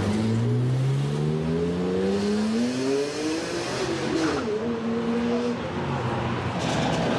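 Mercedes-AMG car accelerating hard, its engine and exhaust note rising steadily in pitch for about three seconds, then a gear change near four seconds, after which the note holds steady before dropping away.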